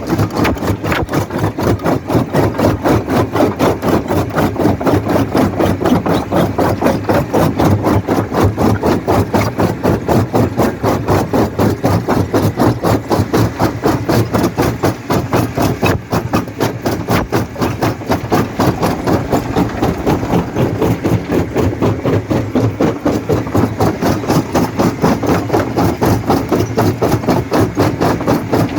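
Jaw rock crusher running steadily, its machinery pulsing in an even, rapid rhythm of about three beats a second, with rattling and knocking of stone in the jaws.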